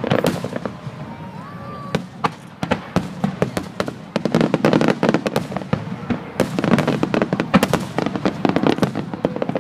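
Fireworks display: many shells bursting in quick succession with sharp bangs and crackling, growing denser and louder about four seconds in.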